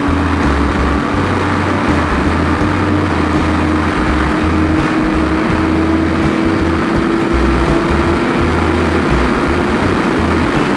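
Motorcycle riding at a steady cruise, its engine note rising slowly in pitch as it gains speed, under heavy wind rush and buffeting on the microphone.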